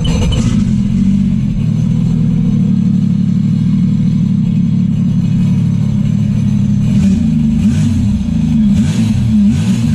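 Sea-Doo Spark's Rotax 900 ACE three-cylinder engine running through a homemade free-flow exhaust with driveline noise, idling steadily and then revved up and down several times near the end.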